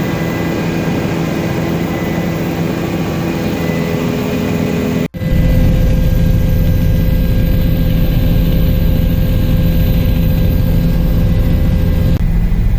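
Helicopter engine and rotor running steadily, a loud, even drone with several steady tones. A brief dropout comes about five seconds in, after which the low rumble is louder.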